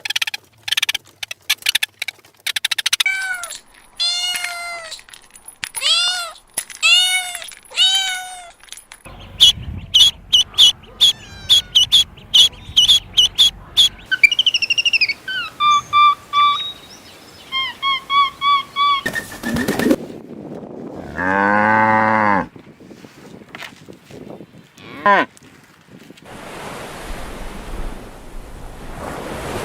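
A string of different animal calls cut one after another: a run of about five arched calls, then fast high chirping and warbling, then a long call that wavers in pitch about two thirds through, ending in a steady hiss.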